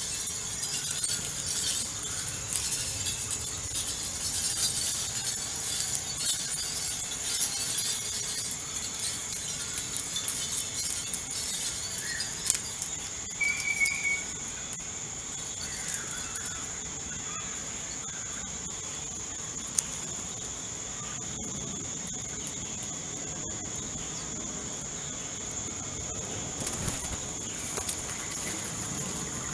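Steady high-pitched insect trill, typical of crickets, with scattered small-bird chirps that are busiest in the first dozen seconds and fall to a few short calls later.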